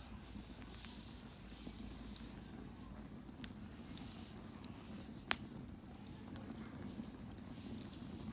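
Wood bonfire burning with a steady low rush, popping sharply a few times, the loudest pop a little past five seconds in.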